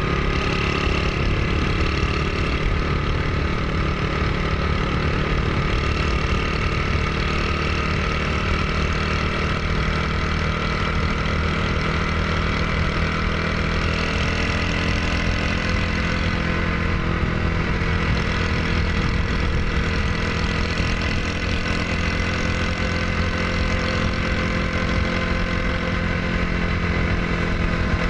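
Honda Super Cub's single-cylinder four-stroke engine idling steadily.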